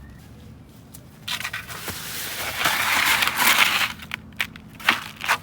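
A skateboard moving over wet snow: a hiss that builds for a couple of seconds, then several sharp knocks of the board near the end.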